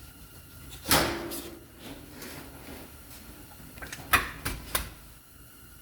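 Tools and parts being handled during a brake job: a clunk about a second in, then three sharp clicks a little after four seconds.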